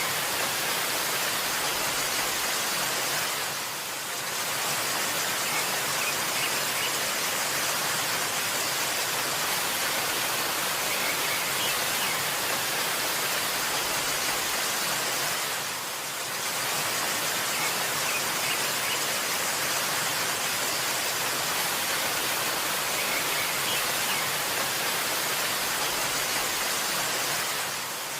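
Steady rushing water of a waterfall, a constant full hiss that dips briefly about every twelve seconds.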